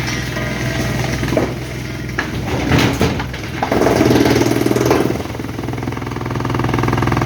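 A large engine running steadily, working harder twice, with a few sharp knocks in between.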